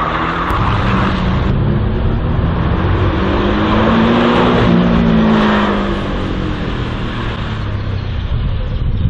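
Slalom race car's engine under hard acceleration, passing close by. Its pitch rises and falls and it is loudest about halfway through.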